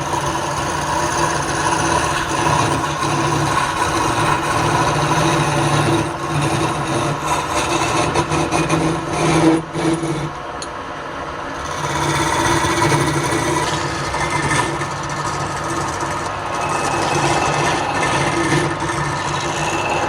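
Wood lathe running with a steady motor hum while a turning tool scrapes and cuts the spinning wood, the sound dipping briefly about halfway through.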